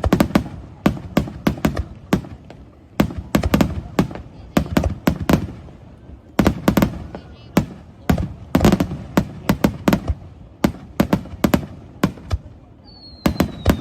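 Fireworks going off in rapid volleys of sharp bangs, clustered every second or two. Near the end a long high whistle slides slowly downward.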